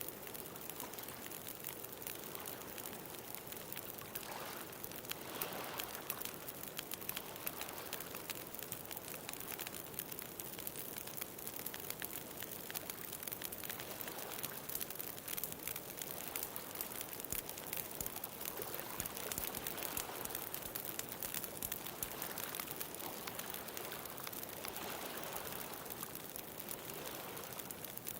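Bonfire crackling with many small sharp pops, over the wash of ocean waves that swells and fades every several seconds.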